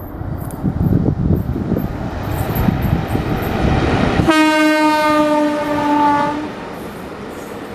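Passing train: track and wheel rumble building over about four seconds, then one long horn blast a little past halfway that falls slightly in pitch as the train goes by.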